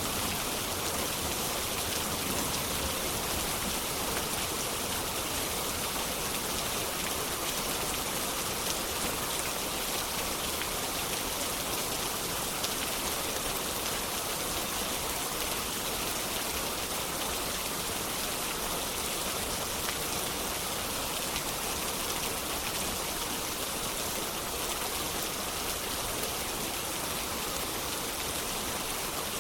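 Steady rain falling, an even hiss with no breaks, with the last of a low thunder rumble dying away in the first moments.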